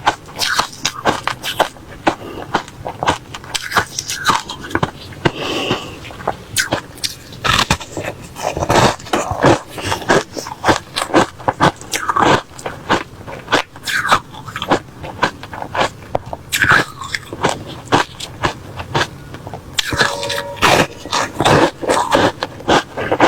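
Close-up crunching and chewing of refrozen crushed ice: many rapid, irregular crunches and cracks as the ice is bitten and ground between the teeth.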